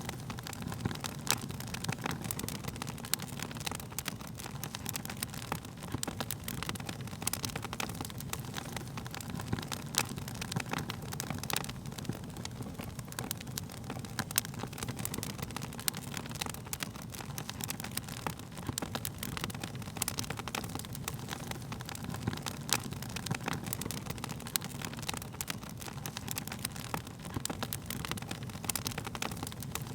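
Wood fire burning: a steady low rush of flames with frequent sharp crackles and pops of burning wood.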